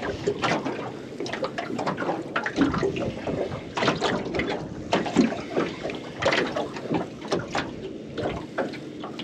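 Water splashing and trickling, with irregular knocks and clicks throughout.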